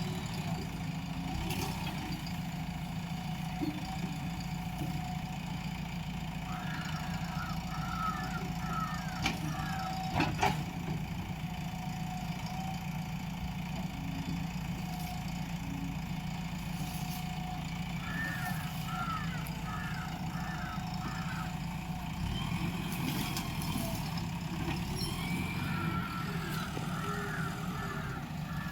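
JCB 3DX backhoe loader's diesel engine running steadily. Two sharp knocks come about nine and ten seconds in, and a short run of high chirps sounds three times.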